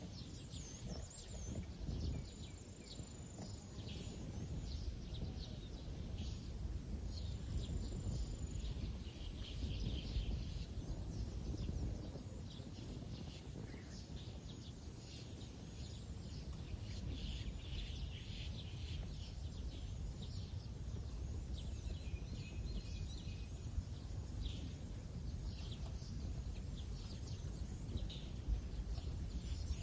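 Faint high chirps and short whistles of small birds scattered throughout, over a steady low background rumble.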